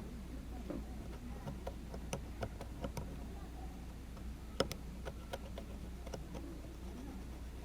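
Scattered light clicks and taps at an irregular pace, with one sharper click about halfway through, over a low steady hum.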